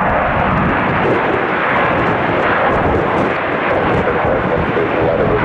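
Jet airliner engines running with a steady loud rush, with gusty wind buffeting the microphone underneath.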